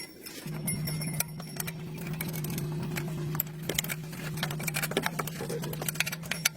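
A steady low mechanical hum starting about half a second in, with frequent light metallic clinks and ticks over it.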